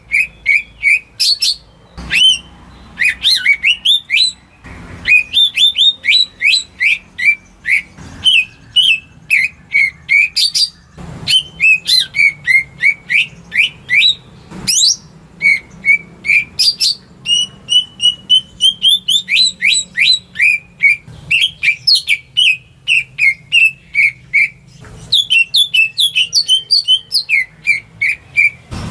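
Cucak ijo (green leafbird) singing: a fast, nearly unbroken string of short chirps and sharp whistled notes, broken by a few brief pauses.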